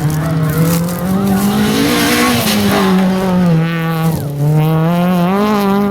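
Rally car engine revving hard on a loose-gravel stage, its pitch holding high, dropping sharply at a gear change about four seconds in, then climbing again, with the tyres skidding on the gravel.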